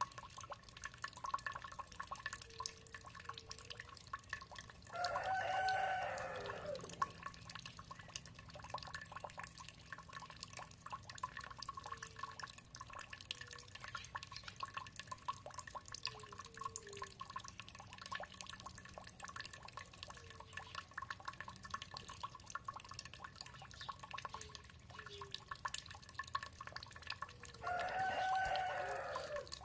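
Water dripping and trickling steadily, while a rooster crows twice, about five seconds in and again near the end, each crow about two seconds long and dropping in pitch at its close. Short faint clucks come in between.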